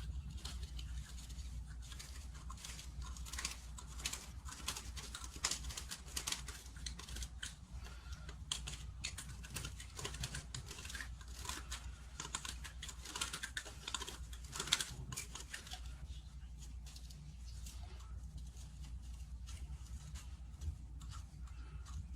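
A knife scraping around the cut ends of plastic pipe to deburr them: a quick, uneven run of short scrapes and clicks that thins out after about 16 seconds, over a steady low hum.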